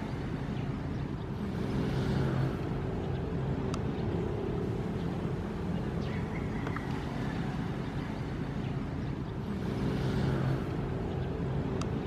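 Ocean waves: a steady low rumble of surf, with two waves swelling up and hissing about eight seconds apart, the first about two seconds in and the second near the end.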